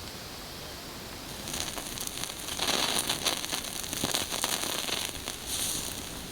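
Campfire crackling and popping, with sharp snaps over a hiss that gets busier from about a second and a half in.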